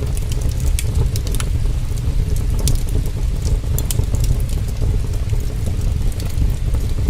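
Heavy rain, a steady dense rushing with a deep low rumble, with the sharp irregular pops and crackles of a wood fire scattered through it.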